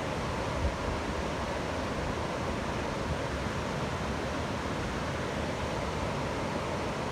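Waterfall with water pouring and splashing in a steady rush, with a few faint low thumps from wind on the microphone.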